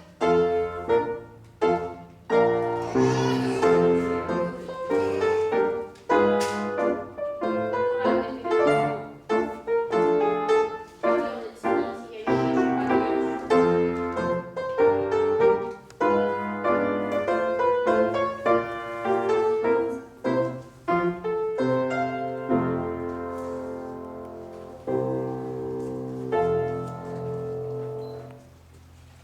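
Piano accompaniment for ballet exercises: notes struck in a steady, even rhythm, ending in held chords that ring out and fade.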